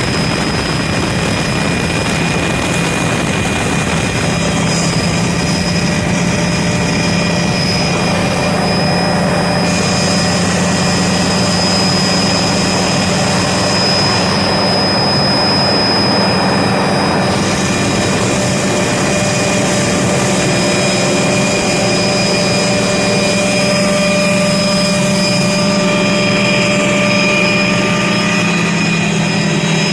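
Helicopter running steadily at close range: a constant loud mix of turbine whine and rotor noise that does not rise or fall.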